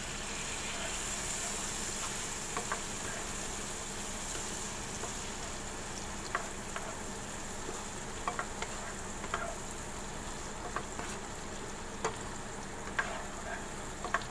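Chili sambal sizzling in a wok while a wooden spatula stirs fried tempeh, chicken livers and gizzards through it. Scattered light scrapes and taps of the spatula on the pan sound over the steady sizzle.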